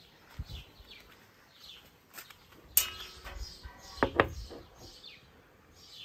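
Birds chirping faintly and repeatedly, with a sharp click a little under three seconds in and a louder knock about a second later.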